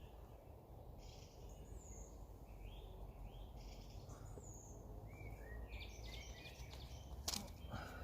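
Small birds chirping at intervals over a steady low rumble of wind in the woods, with a single sharp click about seven seconds in.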